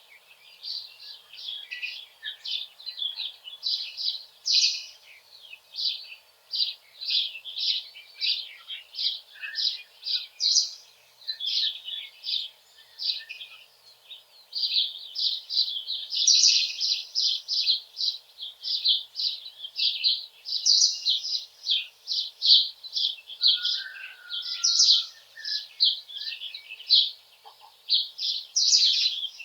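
Small birds chirping in a dense, unbroken run of short high notes, several a second, over a faint hiss of wind in the leaves.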